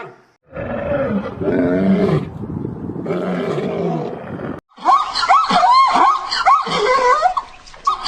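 A big cat roaring and growling for about four seconds. After a sudden cut, a dog or canid pup gives rapid, high, wavering yips and whines.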